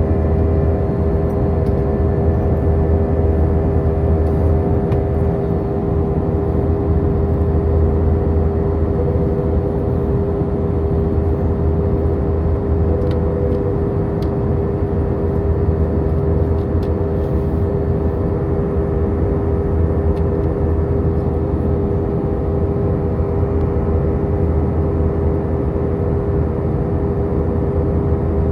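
Steady jet engine and airflow noise heard inside an Airbus A319's cabin: a deep, even rumble with a constant droning hum.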